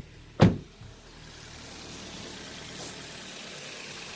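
A single sharp knock about half a second in, then a Maruti Suzuki Swift Dzire's engine idling steadily and smoothly on petrol.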